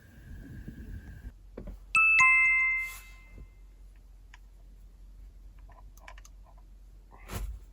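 A two-note descending chime, ding-dong, about two seconds in, ringing out for about a second. Before it a faint steady high whine stops, and a short knock comes near the end.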